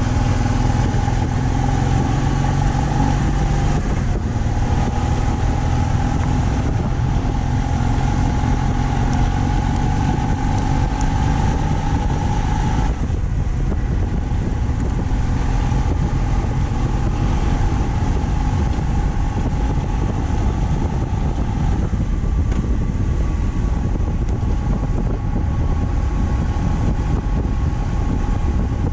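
BMW R 1200 C's flat-twin boxer engine running at a steady cruise, with road and wind noise over it. The engine note shifts slightly a few times.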